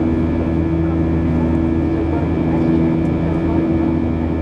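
Steady cabin drone of a Boeing 737-700 in flight, from its two CFM56-7B turbofans and the airflow, with a few steady low hums running through it.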